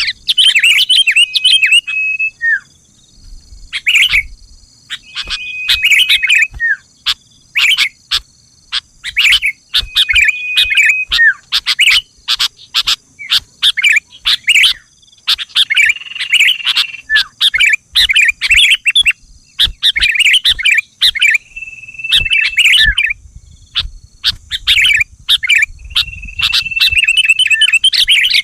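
Sooty-headed bulbul (kutilang) song: short bubbly phrases repeated every second or two, many ending in a brief level note. A faint thin steady high tone runs behind.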